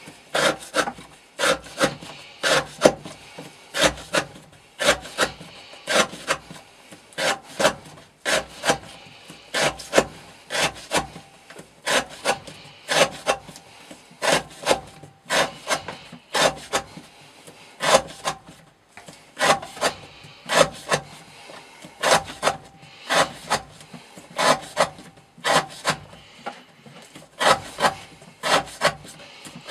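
A knife blade drawn in quick repeated strokes, each a short dry rasping scrape, about two to three a second in runs with brief pauses.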